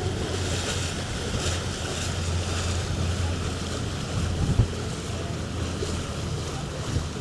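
Whale-watching boat's engine running with a steady low hum, under wind buffeting the microphone and the wash of water. A single sharp knock about four and a half seconds in.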